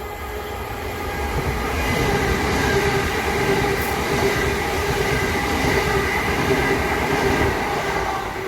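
A pair of Southeastern Class 375 Electrostar electric multiple units passing through. The sound builds over the first couple of seconds, then holds as a steady rumble of wheels on rail with a steady whine over it.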